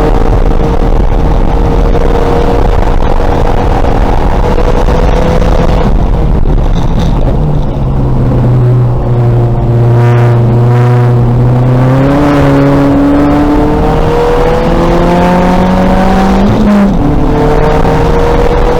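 Race-prepared 2000 VW Golf's engine at racing speed. Its pitch climbs slowly, falls away about eight seconds in and holds low for a few seconds, then climbs again. A sudden drop near the end, likely an upshift, is followed by a fresh climb, all over constant wind and road noise.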